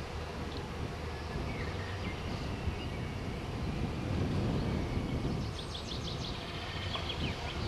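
Low, steady rumble of an ÖBB regional push-pull train rolling slowly toward the listener, swelling a little midway. A bird chirps rapidly near the end.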